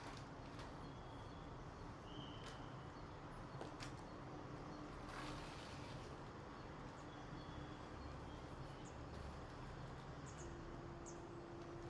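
Faint outdoor ambience with a low steady hum, a few brief, high bird chirps and scattered light clicks.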